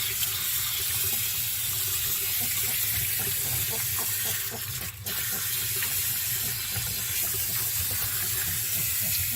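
Water running from a utility-tub faucet and sprayer, splashing over a wet puppy's coat and into the tub as it is rinsed, with a brief drop in the flow about five seconds in.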